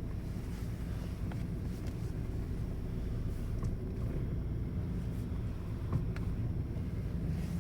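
Audi Q5 2.0 TDI with the engine running as a steady low rumble, with a few faint clicks from the steering, the creaking that the owner suspects comes from the steering gear.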